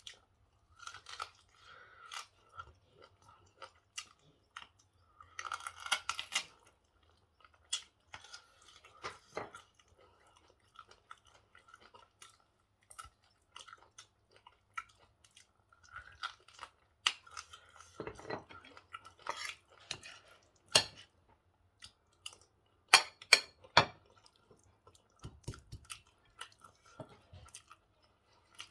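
Close-miked chewing while eating pork stew and white rice: irregular wet chewing and mouth smacks, with a few sharp louder clicks about two-thirds of the way through.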